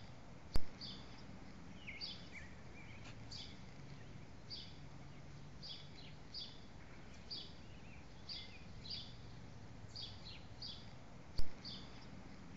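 Small birds chirping: short high chirps that drop in pitch, often in pairs, about every second, over a faint low hum. Two sharp clicks, the loudest sounds, come just after the start and near the end.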